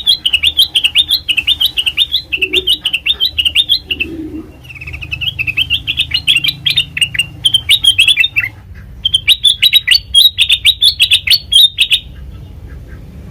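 Kutilang emas bulbul singing: three long runs of rapid, warbling chirps, with short pauses about 4 and 8.5 seconds in, the song stopping near the end.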